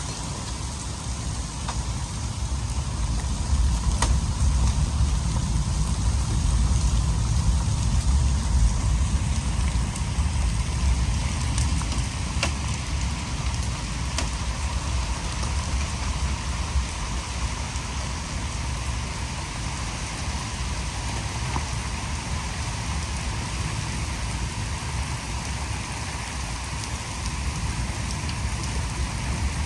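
Steady rain and hail falling, with a few sharp hailstone hits standing out, over a deep, steady rumble.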